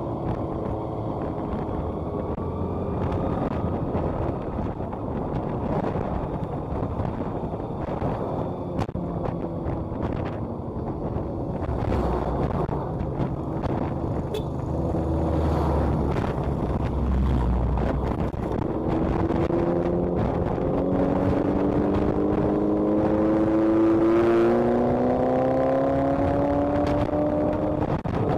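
Motorcycle riding along a road: the engine runs under steady wind and road noise. In the second half an engine's pitch climbs steadily as it speeds up.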